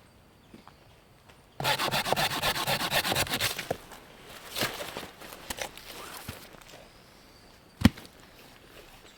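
Hand saw cutting through wood in quick strokes for about two seconds, followed by a few quieter scrapes and a single sharp knock of wood near the end.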